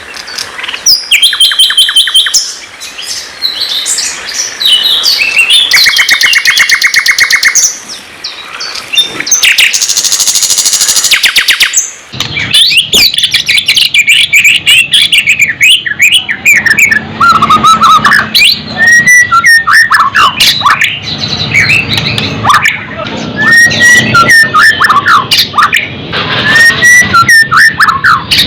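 Continuous loud songbird song, sikatan londo and white-rumped shama (murai batu): rapid repeated-note trills and a buzzy rattle, then an abrupt switch about twelve seconds in to a recording with a low hum under it and many quick, curving whistled phrases.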